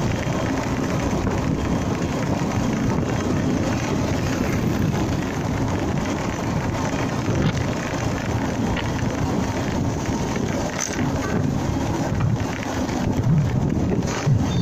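Honda MegaPro Primus single-cylinder motorcycle riding along: the engine's running rumble mixed with steady rushing wind and road noise on the mounted camera's microphone.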